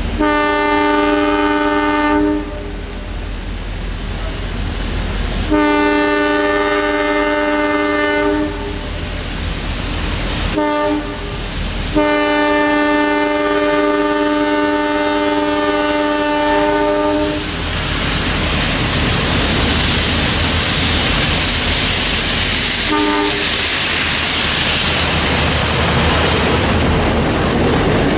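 Locomotive horn blowing the grade-crossing signal: two long blasts, a short one and a final long one, with a brief extra toot later. The train then rolls past with loud rushing wheel and rail noise.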